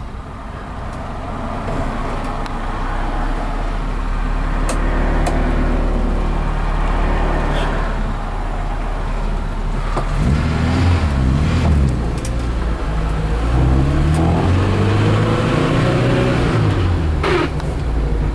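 The 1972 BMW 2002's four-cylinder engine pulling through the gears, heard from inside the cabin. The revs climb, fall at a gear change about ten seconds in, then climb again. Near the end there is a short sharp clunk at a shift, which the driver puts down to his own wrong-handed shifting rather than to the gearbox.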